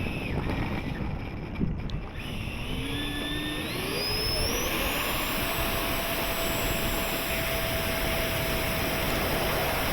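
70mm electric ducted fan of a Freewing F-22 Raptor RC jet spooling up for takeoff. Its whine rises steadily in pitch from about two seconds in, then holds at a steady high pitch at full throttle.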